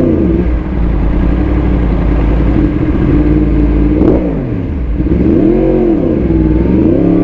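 Yamaha R1 crossplane inline-four breathing through an Akrapovic titanium full-system exhaust, ridden on the road. It holds steady revs for about four seconds, then the revs drop and climb again in two swells as the throttle is rolled off and on.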